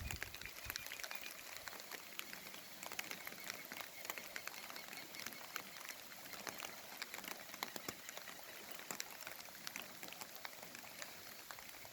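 Heavy rain falling, faint: a steady hiss with many small drops pattering in quick, irregular ticks.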